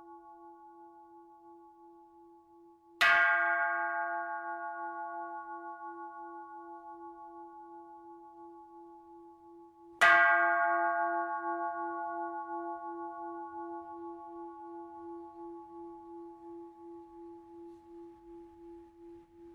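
Buddhist bowl bell struck twice, about seven seconds apart. Each strike rings long and fades slowly with a pulsing wobble in its tone, over the fading ring of an earlier strike.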